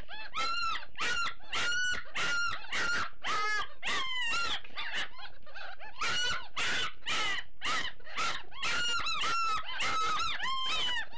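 Several Great Dane puppies whining and crying, a rapid, overlapping stream of high-pitched calls that each rise and fall: hungry pups waiting their turn at feeding time.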